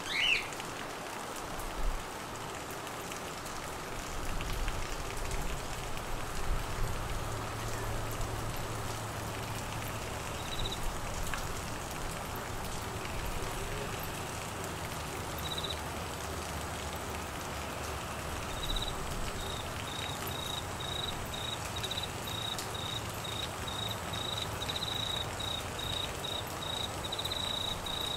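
Steady rain falling. A cricket joins in with a couple of short high trills about ten and fifteen seconds in, then chirps in a continuous run of pulses through the last third. A brief high falling call sounds right at the start.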